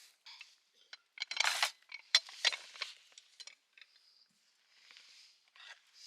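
Camp cookware and utensils being handled: a quick run of sharp clinks and knocks, with a short rustle, about a second in, then a few faint ticks.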